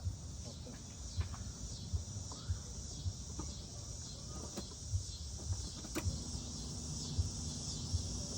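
Outdoor background with a steady high chirring like insects, over soft low thumps roughly twice a second. About six seconds in a sharp click is followed by a steady low hum.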